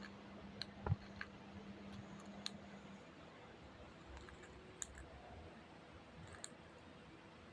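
A few faint, sharp clicks scattered irregularly about a second or more apart, over low room noise.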